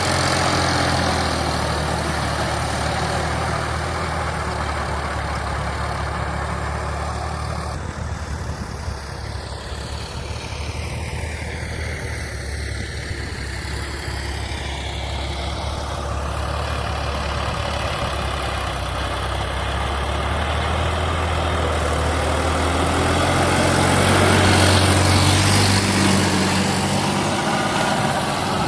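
Sonalika DI 750 DX tractor's diesel engine running steadily. It dips a little in the middle and grows louder towards the end.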